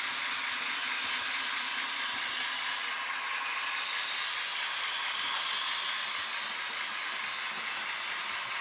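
H0-scale model trains running on a layout, giving a steady hissing running noise, with a faint click about a second in.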